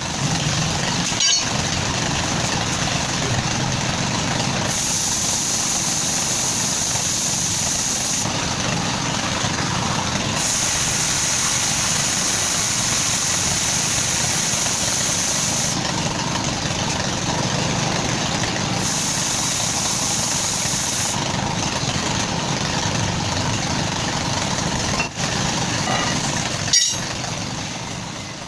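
An engine running steadily, with a high hiss that switches on and off three times and a couple of brief clicks.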